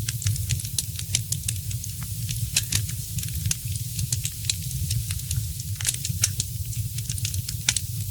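Wood fire in a fireplace crackling and popping: irregular sharp snaps, several a second, over a steady low rumble of the burning fire.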